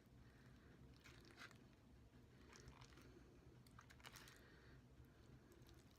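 Near silence with a few faint clicks and scrapes of a fork in a takeout container of bacon mac and cheese, about a second, two and a half seconds and four seconds in.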